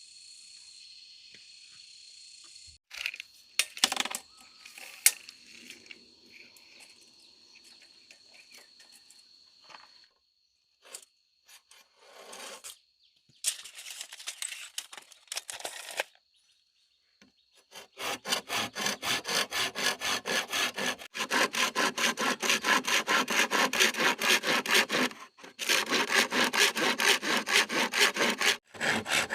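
Hand saw cutting with quick, even back-and-forth strokes, about three a second, over the last third, pausing briefly twice; before it, a few scattered knocks and rustles.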